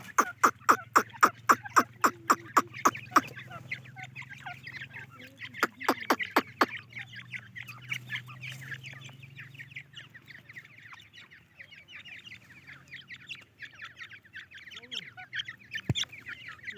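Teetar partridges (francolins) calling: a fast series of loud, sharp notes, about five a second, for the first three seconds and again briefly about six seconds in, over a steady chatter of quieter calls and a low hum.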